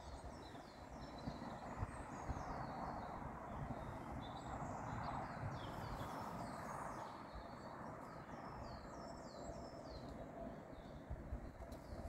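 Birds singing: many short, high chirps that slide downward, repeated throughout, over a faint low rumbling noise.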